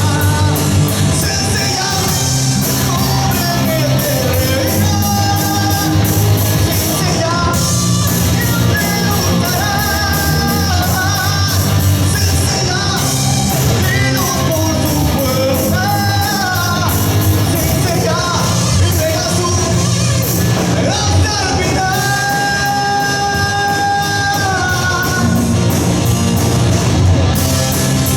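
Live rock band playing: a male lead singer over electric guitar, bass guitar and drum kit.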